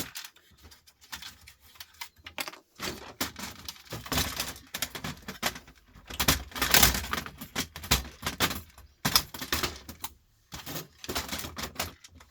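Irregular clicking and clattering of small metal and plastic parts being handled and pried apart while dismantling electronics, loudest about halfway through.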